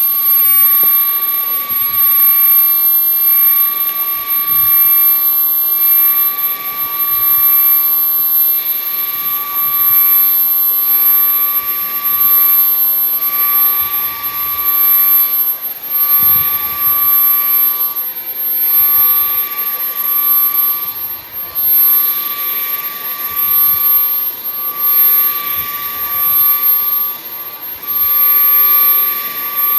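Bissell CleanView XR Pet cordless stick vacuum running on max boost: a steady high motor whine over rushing airflow, swelling and easing about every two seconds.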